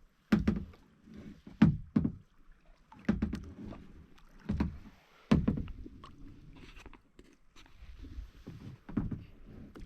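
Kayak being paddled on a river: irregular knocks and splashes from the paddle strokes and the hull, with a faint wash of water between them.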